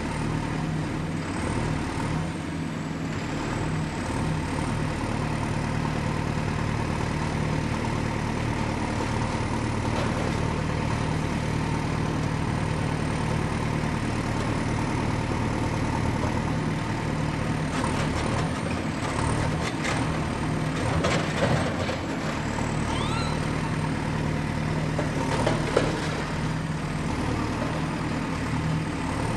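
Excavator's diesel engine running steadily under work, with a run of metallic clanks and knocks about two-thirds of the way through and another short burst near the end.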